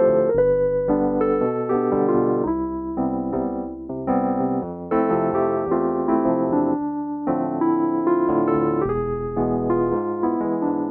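Korg C1 Air digital piano playing chords on its built-in electric piano voice, with the notes and chords changing about every second.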